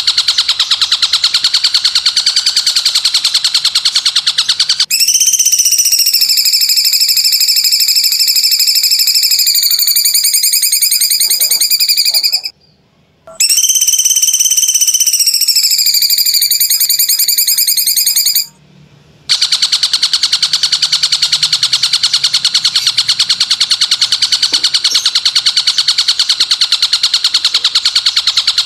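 Masteran song-training recording: a loud, very fast rasping trill, broken twice by a long buzzy note that slides slightly down in pitch and cuts off suddenly, before the rapid trill returns.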